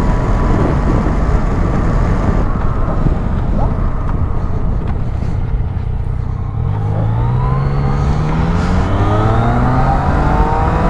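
Motorcycle engine and wind rush heard on the rider's camera while riding. In the second half the engine note climbs steadily as the bike accelerates.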